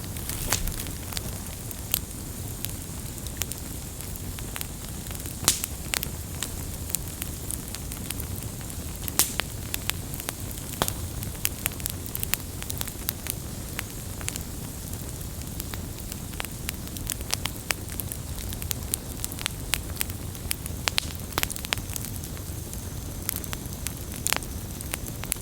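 Wood campfire burning, a steady low rumble of flame under irregular sharp crackles and pops from the burning wood, a few louder pops standing out.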